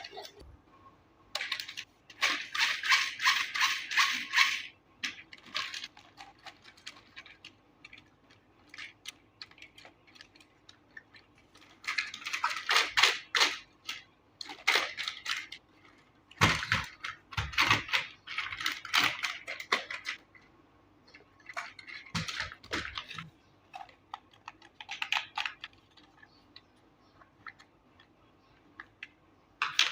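Toy packaging being handled during unboxing: irregular bursts of rustling and clicking, each a second or a few seconds long, with quiet pauses between them.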